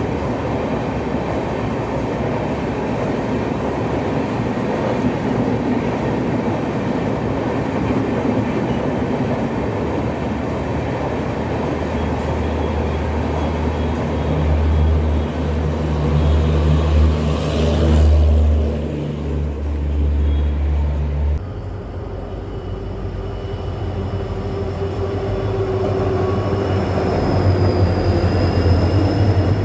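Departing passenger train rolling along the track with a steady rumble of wheels on rails. From about twelve seconds in, a deep steady hum joins and cuts off suddenly around twenty-one seconds, leaving a quieter hum.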